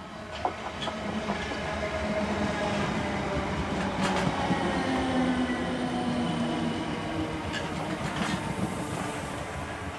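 Electric multiple-unit train running by on the rails, growing louder over the first couple of seconds, with a steady motor hum and several sharp clicks of wheels over rail joints.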